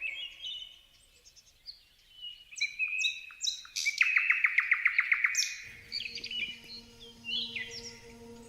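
Several songbirds chirping and whistling, with a fast, loud trill of about ten even notes a little before the middle. Faint steady low tones come in near the end.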